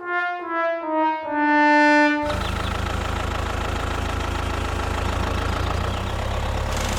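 Four brass notes stepping down in pitch, the last one held longer, like a sad-trombone 'wah-wah-wah-wahhh' effect. After about two seconds it gives way to the steady low hum of a small motor running.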